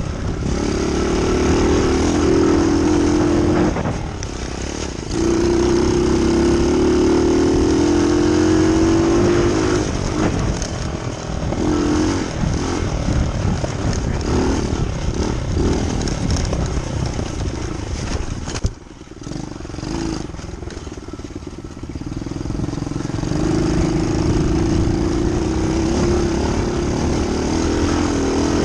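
Dirt bike engine running and revving up and down, its pitch rising and falling. Near the middle of the stretch the engine note falls away suddenly, then builds back up a few seconds later.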